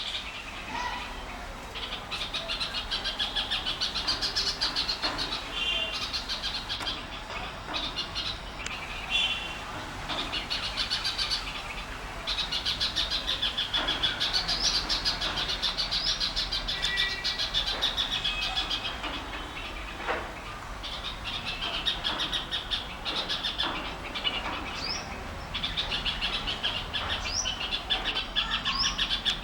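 A flock of many small birds chirping and chattering at once, a dense, unbroken chorus of rapid high calls. It is typical of birds gathering to roost.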